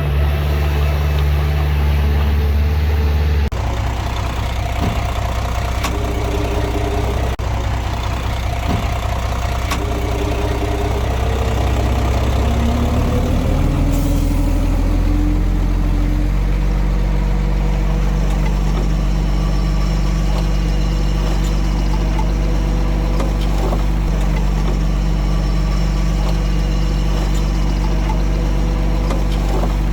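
Heavy diesel engine of earthmoving machinery running steadily. Its note changes about three seconds in and rises around thirteen seconds in.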